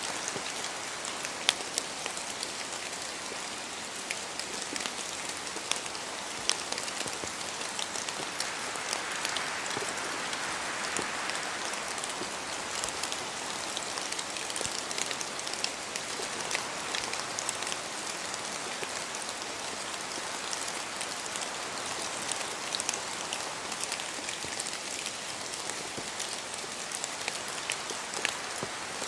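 Steady rain falling in a forest, with many single drops ticking sharply close by among the even hiss of the rain. Slow swells of wind rise and fall twice.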